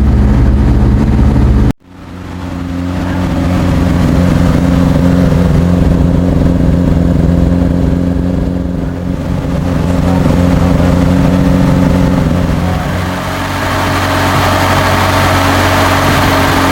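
Freshly rebuilt BMC A-series four-cylinder engine of a 1966 Morris Cooper S running steadily at a raised run-in idle. The sound cuts out abruptly for a moment about two seconds in, then the engine is heard running again.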